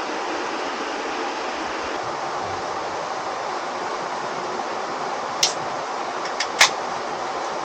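Steady rushing of flowing water, with three short sharp clicks or knocks near the end, the last one the loudest.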